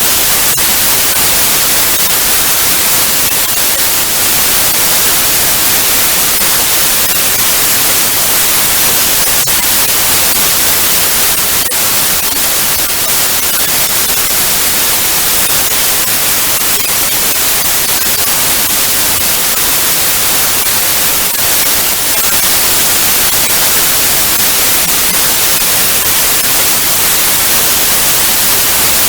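Analogue TV static: steady, loud hiss, brightest in the treble, with faint crackles here and there.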